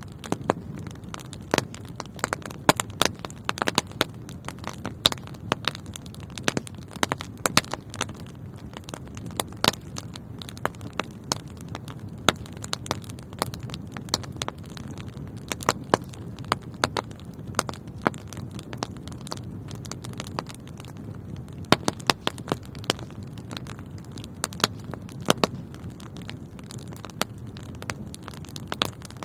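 Wood fire burning in a fireplace: a low, steady rumble of flames with frequent irregular crackles and pops from the burning logs.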